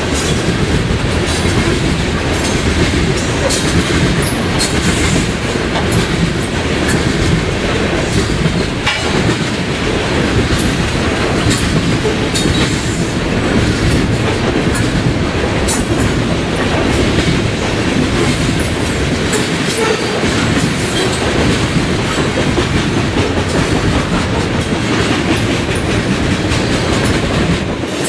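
Coal hopper cars of a freight train rolling past: a loud, steady rumble of steel wheels on rail, with scattered clacks as the wheels cross rail joints.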